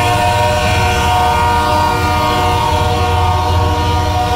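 Multi-chime air horn of a GE freight diesel locomotive held in one long, steady chord, with the low rumble of the train underneath.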